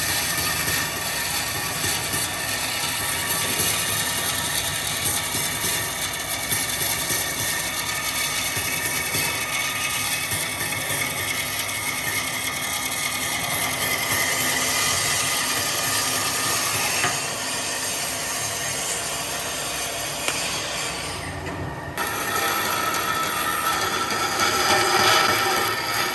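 A power tool running on wood: a steady motor whine under a dense, rattling grinding noise. It eases off briefly about two-thirds of the way through, then picks up again.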